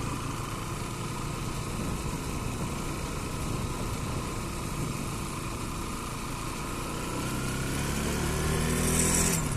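Bajaj Pulsar NS200 motorcycle's single-cylinder engine running while riding, its pitch climbing over the last couple of seconds, then dropping off abruptly near the end.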